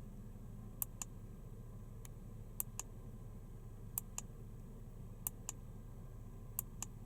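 Five sharp double clicks, each a click and a second click a fifth of a second later, coming every second and a half or so over a low steady hum.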